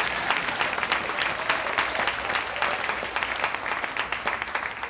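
Comedy club audience applauding, a dense patter of many hands clapping that thins out near the end.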